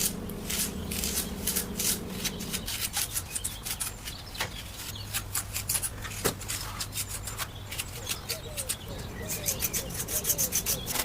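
Irregular small scrapes and clicks of hand work on a miniature cement-and-brick build, with faint short chirps near the end.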